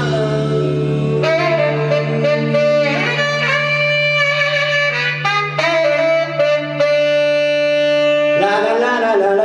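Live band music: a saxophone plays a phrase of long held notes over a sustained low chord that changes about eight and a half seconds in.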